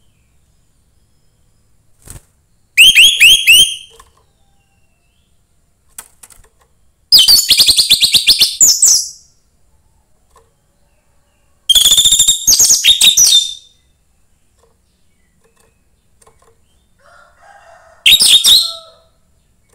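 Young wild orange-headed thrush singing in four loud bursts of rapid, high, repeated notes, each one to two seconds long, separated by pauses of a few seconds.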